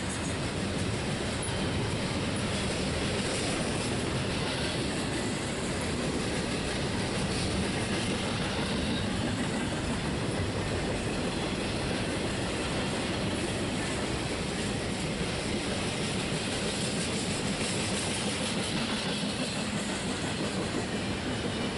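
Double-stack container train's well cars rolling past, a steady, continuous noise of steel wheels on rail.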